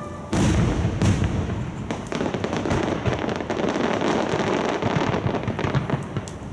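Fireworks shells bursting in the air: a sudden loud boom about a third of a second in and another about a second in, then a dense run of rapid crackling bursts that dies down near the end.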